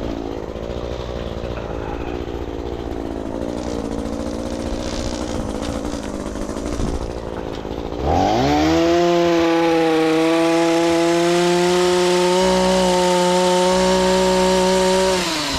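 Gas chainsaw idling, then revved to full throttle about eight seconds in and held high and steady for about seven seconds before dropping back to idle near the end.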